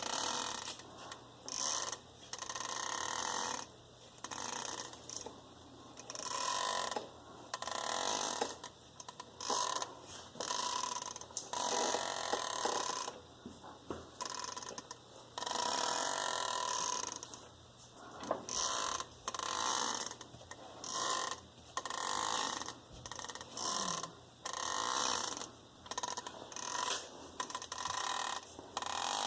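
A worn-out universal joint on a new driveshaft for a 2007 Jeep Grand Cherokee WK, flexed over and over, creaking and grinding in uneven strokes of about a second each with short pauses between. The creak is the sign that the driveshaft's u-joints are shot.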